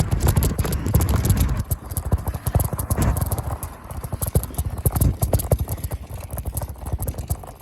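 Rapid, irregular knocking and rattling with a heavy low wind rumble, as from a camera riding along on a moving bicycle.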